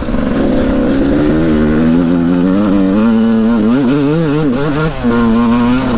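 2001 Yamaha YZ125 125cc two-stroke motocross engine being ridden, its pitch rising and falling continuously as the throttle is worked.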